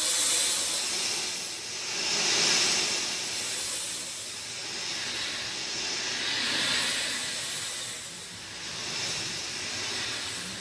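Rain falling, a steady hiss that swells and eases every few seconds.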